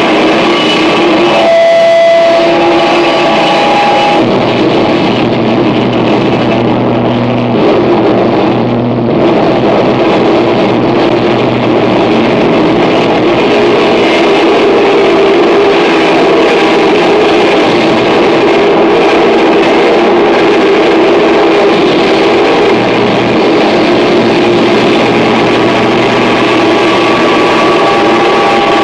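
Harsh noise music: a loud, dense wall of distortion with several steady held tones running through it and a low hum that drops in and out.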